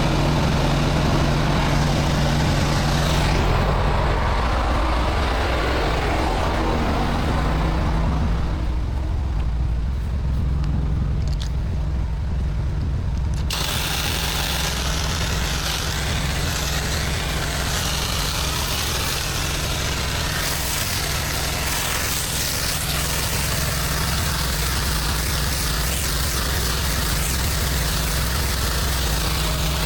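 Pressure washing rig's engine running steadily under a hissing water spray. The hiss fades out about eight seconds in and cuts back in abruptly a few seconds later, as the spray is stopped and started again.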